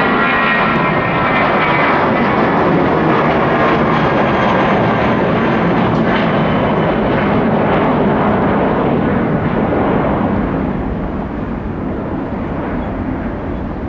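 Airbus A320-200 airliner departing under takeoff power, its jet engines a loud, steady rush with a whine that fades early on; the noise eases off about ten seconds in as the jet climbs away.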